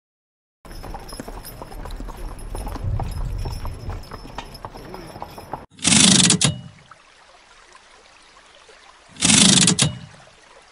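Horses' hooves clip-clopping on cobbles amid busy street bustle, with many irregular knocks. After about five seconds this gives way to two loud, short bursts of sound about three seconds apart.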